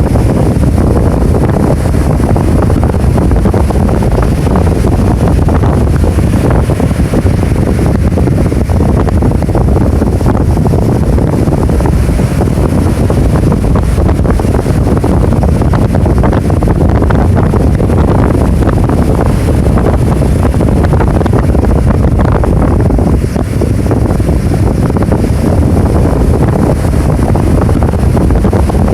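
Heavy typhoon-driven surf breaking continuously, mixed with strong wind blowing across the microphone. The sound is loud and steady.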